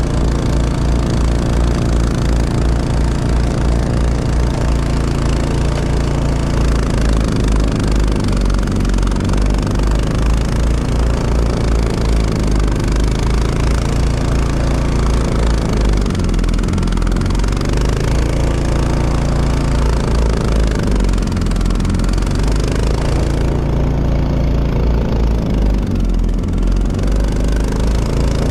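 An engine running steadily with a pulsing low rumble. Its pitch drops and rises again a few times in the second half, as if it is being eased off and back on.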